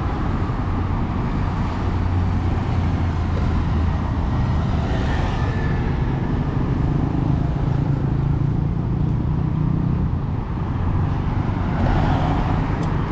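Road traffic noise: motor vehicle engines running close by, a steady low hum that shifts up in pitch around the middle, over a constant rumble.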